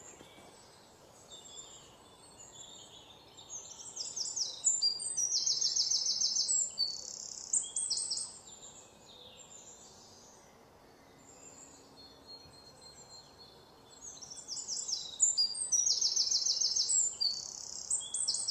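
Small birds chirping and trilling, high-pitched, in two bouts of several seconds each, starting about three and a half seconds in and again from about fourteen seconds in, over a faint steady hiss.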